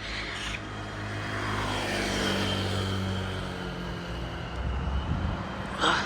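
Bus engine running as the bus goes by, a steady low drone with a faint high whine above it; the engine note changes about four and a half seconds in.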